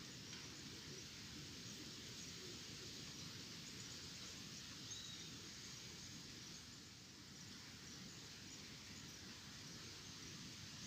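Faint, steady outdoor ambience with a soft hiss, and a single short bird chirp about five seconds in.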